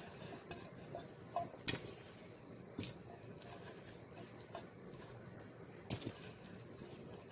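A few light, sharp clicks and knocks of kitchen handling at a pot, a handful of scattered ticks with the clearest about two seconds in and another near the end, over a faint steady hiss.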